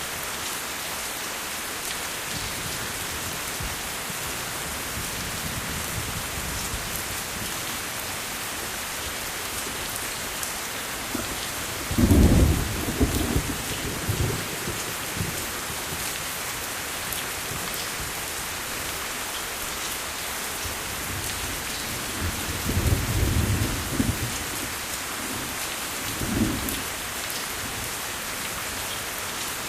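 Steady heavy rain hissing, with deep rumbles of thunder rolling in about twelve seconds in, the loudest, and again twice in the last third.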